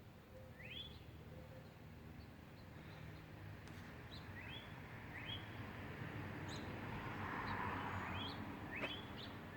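A songbird gives repeated short upslurred chirps, about eight in all at irregular intervals, over a steady low hum. A faint rushing noise swells and fades about seven to eight seconds in.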